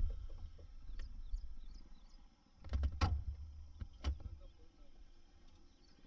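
A few sharp knocks and clunks about three and four seconds in, over a low rumble of wind on the microphone, with faint high chirps of small birds.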